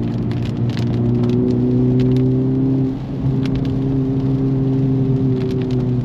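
Honda Civic Type R FL5's turbocharged 2.0-litre four-cylinder engine pulling steadily under load, dipping briefly about three seconds in before pulling again, with scattered light clicks over it.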